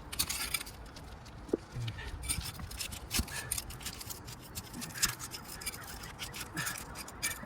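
Irregular scraping and sharp clicking of a tool being worked under asphalt shingles to break their sealant bond.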